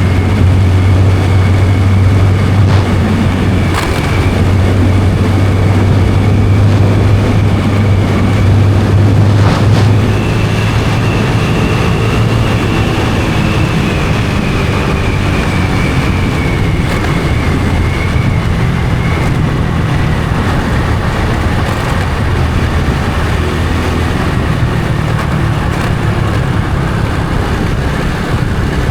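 Honda Supra X 125 FI's single-cylinder four-stroke engine running under way. About ten seconds in the engine note drops and gets quieter, as the throttle eases, then holds at a lower, steadier pitch.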